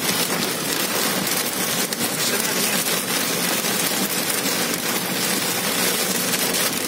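Heavy rain on a car's roof and windscreen, heard from inside the moving car: a dense, steady hiss.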